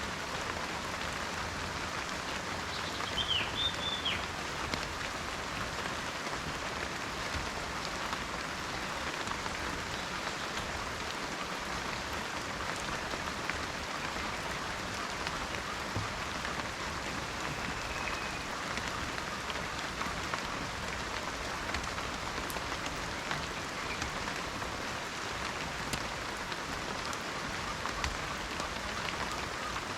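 Steady rain falling on forest foliage, with scattered drips. A bird calls briefly a few seconds in, and again faintly later.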